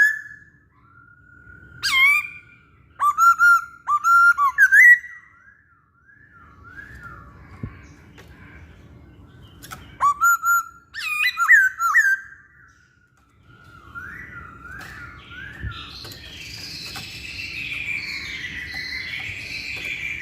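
Chinese hwamei singing: loud whistled phrases of repeated up-slurred notes in bursts separated by short pauses. From about two-thirds of the way in, this gives way to a softer, continuous rambling warble.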